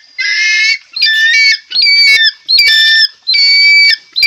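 Pet eagle calling: a rapid series of about six short, high, whistling screams, each about half a second long and several starting with a quick upward slide.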